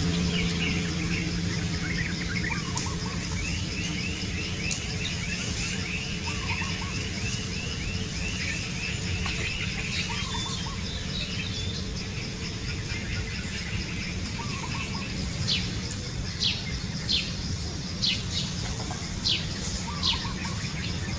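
Wild birds calling: a fast run of high chirps for several seconds, then, later on, a series of short, sharp descending whistles, over a steady low hum.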